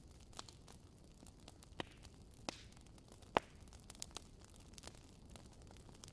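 Fireplace fire crackling: irregular sharp pops and snaps over a low steady hiss, the loudest pop a little past the middle.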